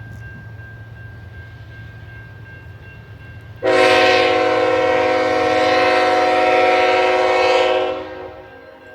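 Norfolk Southern diesel locomotive's air horn sounding one long, steady blast of about four seconds, starting about three and a half seconds in, over the low rumble of the locomotives' diesel engines.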